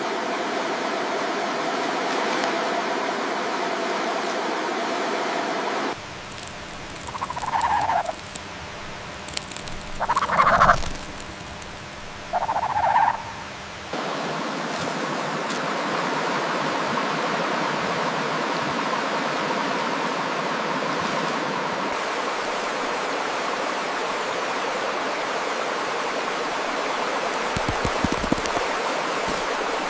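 Steady rush of flowing water. About six seconds in it cuts to a quieter stretch with three short animal calls a couple of seconds apart, and the water noise returns about fourteen seconds in.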